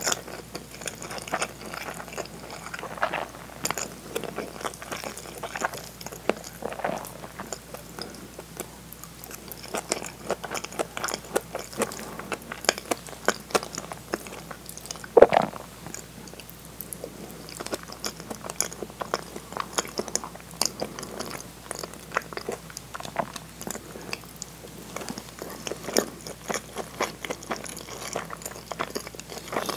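Close-miked chewing and wet mouth sounds of a person eating rice, hamburg steak and potato salad with chopsticks: many small clicks and smacks. There is one louder sound about halfway through.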